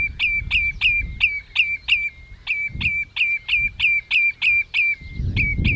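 Common redshank calling: a rapid series of short, sharp notes, each dropping slightly in pitch, about four a second. The series comes in three runs, broken by brief pauses after about two seconds and again about five seconds in.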